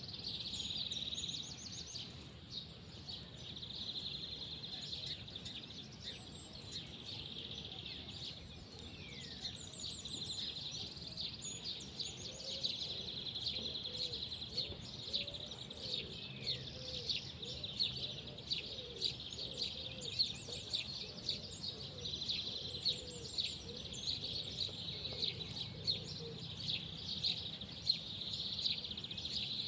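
Birds chirping and calling: many short, high chirps and trills over a steady high-pitched chorus, with a faint low rumble underneath.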